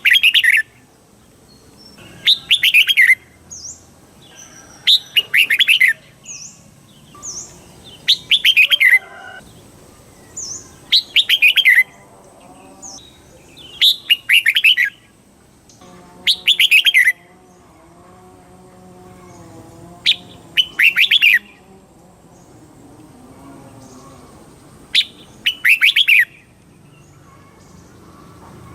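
Red-whiskered bulbul singing: loud, short phrases of quick falling notes, repeated about every three seconds, with softer high chirps in between.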